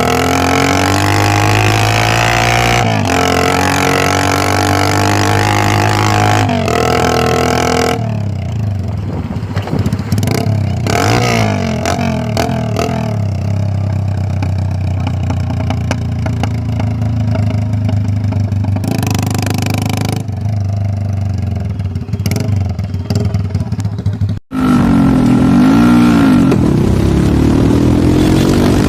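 Modified Hero Splendor motorcycle with a tractor silencer as its exhaust, engine running loud and being revved, its pitch rising and falling. The sound cuts out for a moment about 24 seconds in, then resumes.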